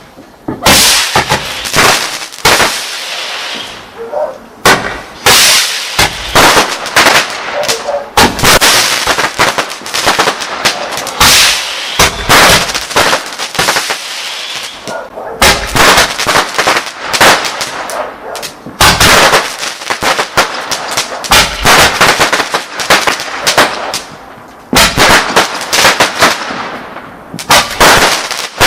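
Multi-shot firework cake going off: a rapid run of loud bangs and crackles, several a second, broken by a few short pauses.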